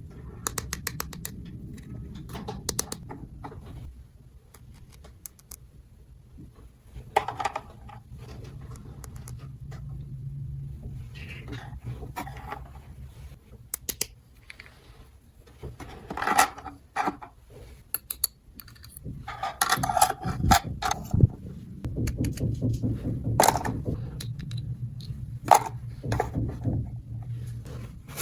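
Small toy pieces being handled: scattered sharp clicks, taps and short scrapes, with a low hum in some stretches.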